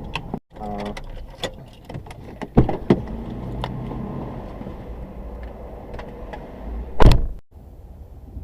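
Car interior noise: a steady low rumble with scattered clicks and knocks, a thump about two and a half seconds in, and a loud, short thump near the end.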